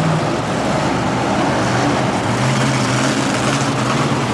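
Monster truck engine running loud and steady, its low note dropping slightly about a second in and holding there.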